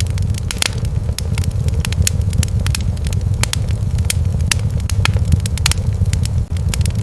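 Wood fire crackling in a fireplace, with many sharp pops and snaps, several a second, over a steady low rumble.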